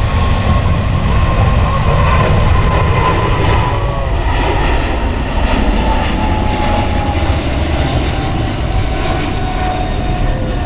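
Jet airliner engines running loud at close range: a heavy rumble with an engine whine that falls slowly in pitch.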